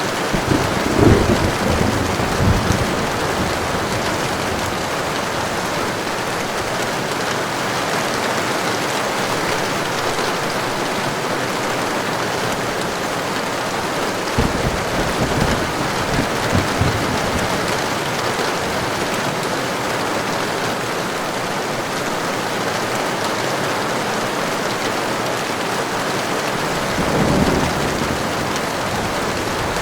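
Heavy rain falling steadily, with low rolls of thunder: one about a second in, another around the middle, and a third near the end.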